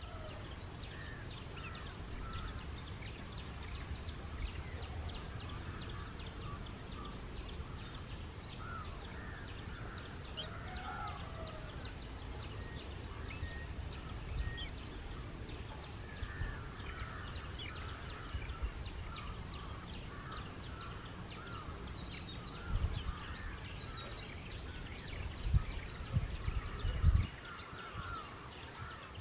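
Many birds calling in short, repeated notes throughout, over a steady low rumble, with a few louder low thumps near the end.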